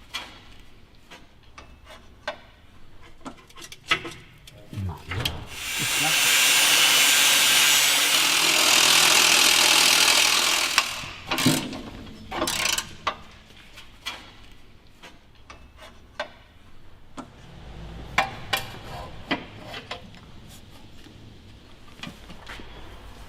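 A power tool runs steadily for about five seconds, starting about six seconds in, while the old exhaust is taken off a car on a lift. Short knocks and clicks from tools are scattered before and after it.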